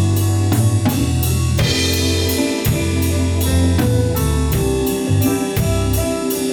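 Pop-jazz music with a drum kit keeping a steady beat of about three strokes a second under piano or keyboard chords and a bass line.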